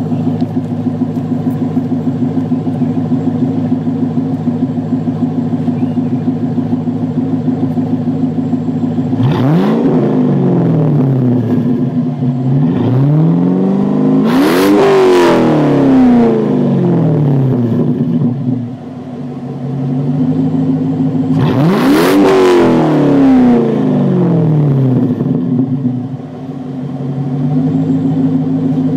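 2004 Pontiac GTO's 5.7-litre LS1 V8, hot, idling steadily through a resonator-deleted X-pipe exhaust with Spintech mufflers. It is revved three times, about ten, fifteen and twenty-two seconds in, each rev rising and falling back to idle.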